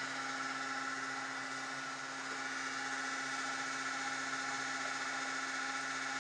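Steady mechanical hum with several fixed tones that do not change.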